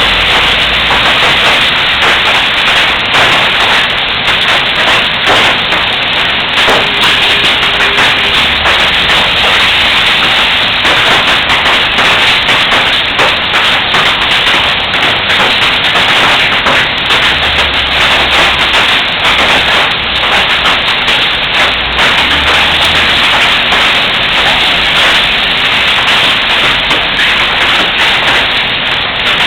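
Heavy rain pouring steadily, a loud, even downpour hiss with no break.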